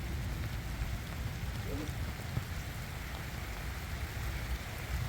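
Heavy rain falling steadily, a dense even patter with a deep low rumble underneath.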